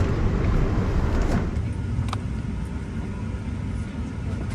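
Steady low rumble of the air-conditioning in a parked Boeing 777-300ER airliner cabin, with a faint hum and a short click about two seconds in.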